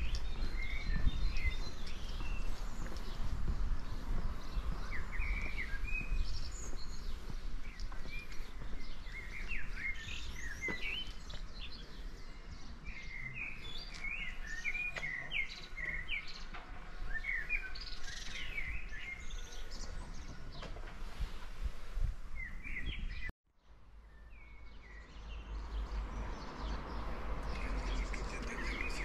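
Several songbirds chirping and singing in quick short phrases, with a low outdoor rumble and the walker's footsteps on pavement underneath. The sound cuts out for a moment about 23 seconds in, then resumes.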